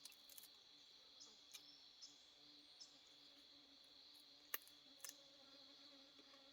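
Faint, steady high-pitched drone of insects, with scattered small clicks and one sharp click about four and a half seconds in.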